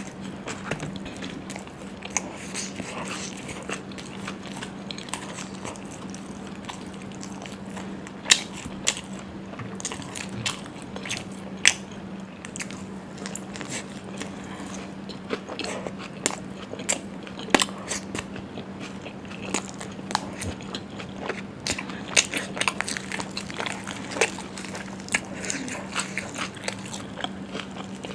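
Close-miked eating sounds: a person biting and chewing mouthfuls of mutton curry, chilli chicken and puri, with irregular wet clicks and small crunches. A steady low hum runs underneath.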